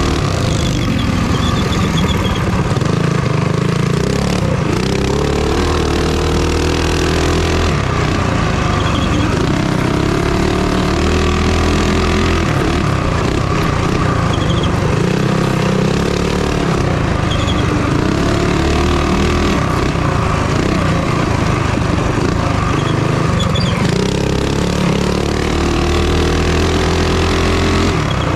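Minibike engine racing on a track, its note climbing under throttle and dropping off again every few seconds.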